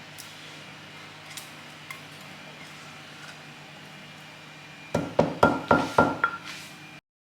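Spice jars clinking and knocking as they are handled and set down: a few faint clicks, then about five seconds in a quick run of six or so sharp knocks with a short ring, over a low steady hum. The sound cuts off suddenly near the end.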